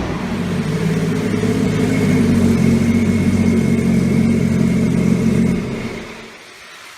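A motor engine running at a steady speed, its hum holding an even pitch, then fading away about six seconds in.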